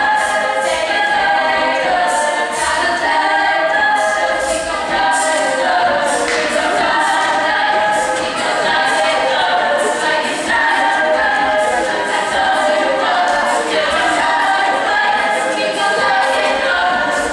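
A cappella group singing in close harmony, several voices at once, over a steady beat made with the voice.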